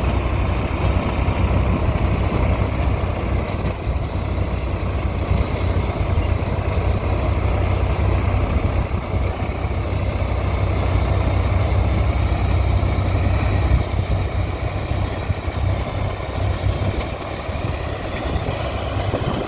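Tractor's diesel engine running steadily with a deep low hum, a little quieter in the last few seconds.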